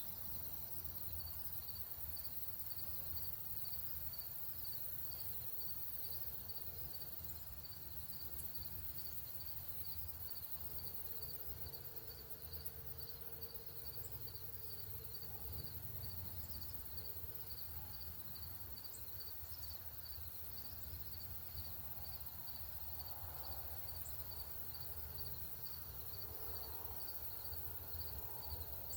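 An insect chirping steadily at an even pace, about one and a half high chirps a second, over a low outdoor rumble, with a few faint bird chips.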